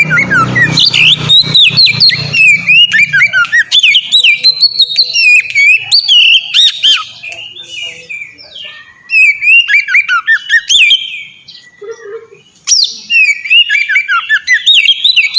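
Oriental magpie-robin (kacer) singing a loud, fast, varied song of rising and falling whistled notes and rapid chattering phrases, broken by two short pauses.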